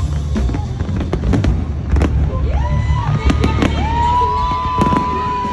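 Fireworks exploding in quick succession, sharp bangs and crackles over a continuous low rumble, with a high whistling tone that rises, holds for about two seconds and falls away near the end.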